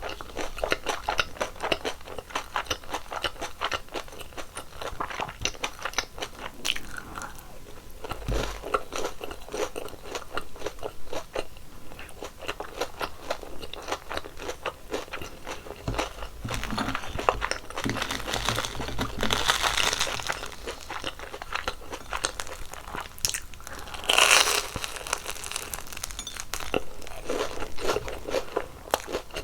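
Close-miked crunching and chewing of crispy fried twisted doughnuts (kkwabaegi), a dense run of sharp crackles. There are louder crunches about two-thirds of the way through and again a few seconds later.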